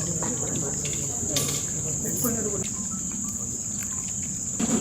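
Insects chirring in a steady, unbroken high-pitched drone, with faint voices underneath and a couple of light clicks.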